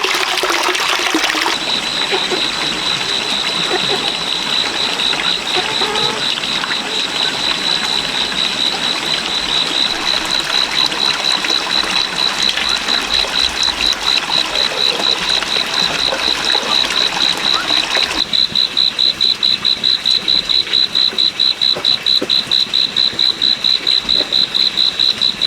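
Running water, with a high, rapidly pulsing chirp that repeats several times a second. The water sound drops away abruptly about eighteen seconds in, leaving the chirping alone.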